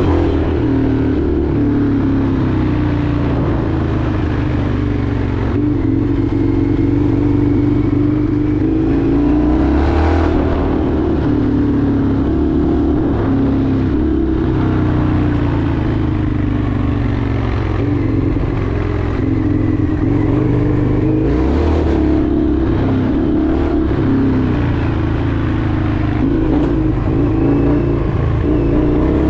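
Indian FTR 1200's V-twin engine running while riding, its pitch rising and falling with the throttle.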